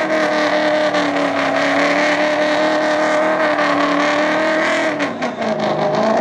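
Car engine held at high revs with a loud, fairly steady pitch. About five seconds in the revs drop briefly and then climb again.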